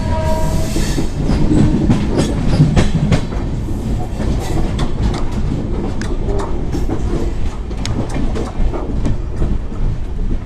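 Navajeevan Express passenger train running at speed: its wheels clatter over the rail joints in a string of sharp clicks above a steady rumble.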